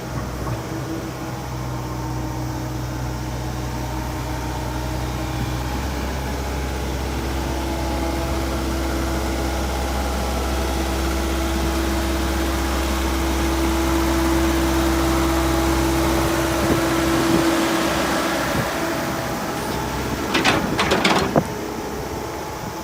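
Komatsu PC78US-8 excavator's diesel engine running steadily, with a steady whine that grows louder through the middle and then fades. A quick cluster of knocks comes near the end.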